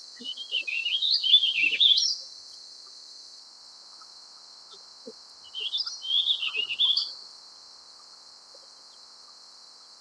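Warbling vireo singing: two rambling, warbled song phrases of about two seconds each, a few seconds apart.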